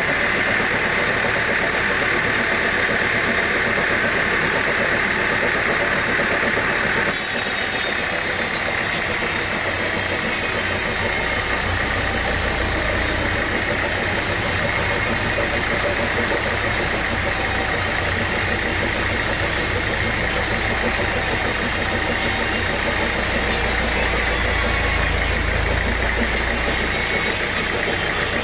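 Sawmill machinery running steadily with an engine-like drone. The sound changes abruptly about seven seconds in, and a deep low rumble comes in a few seconds later.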